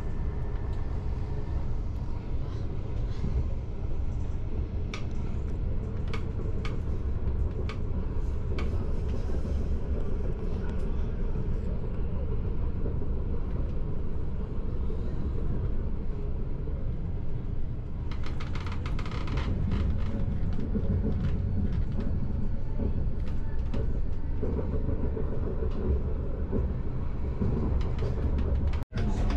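Passenger train running along the track, heard from inside the carriage: a steady low rumble with scattered sharp clicks and a brief rise in hiss partway through.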